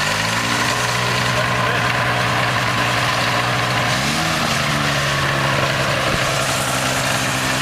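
Quicksilver GT 500 ultralight's engine and propeller running just after start-up, idling steadily with a brief rise in revs about four seconds in.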